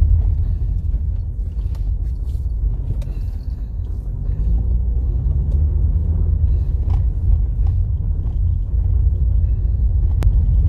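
A car driving, heard from inside the cabin: a steady low rumble of the engine and tyres with scattered light knocks and rattles. The engine pitch rises and falls gently midway through.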